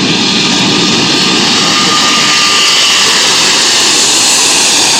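Airbus A380's four jet engines at takeoff power during its departure, a loud, steady roar that swells slightly, with a faint whine about halfway through.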